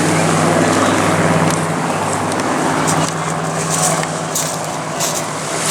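Piston aero engines of a Douglas Dakota flying in formation with two Spitfires, a steady low drone of several even tones that weakens after about three seconds.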